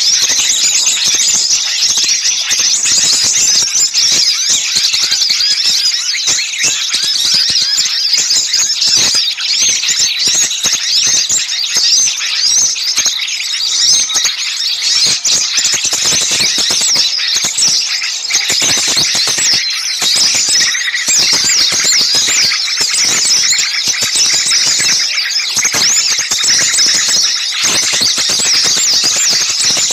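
A dense, noisy chorus of many small songbirds calling at once: continuous high-pitched chattering and shrill calls with no break. An agitated small-bird racket of the kind used as a bird-lure call to draw small birds in.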